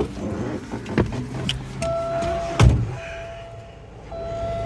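Car door handling: clicks and a heavy thump of a door shutting about two and a half seconds in, with a steady electronic warning beep repeating in short tones.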